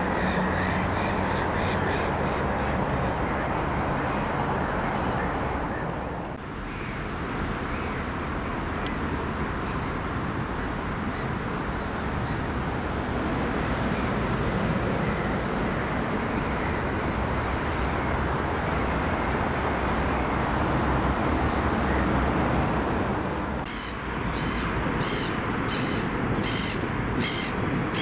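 Steady outdoor background noise, with a bird calling in short repeated notes, about two a second, at the start and again over the last few seconds. The background dips briefly twice.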